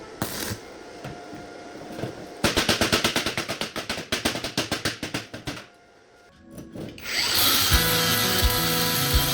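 Workshop power-tool noise over background music: a fast run of clicks that slows and dies away, then, after a brief lull, a steady hissing run of the tool.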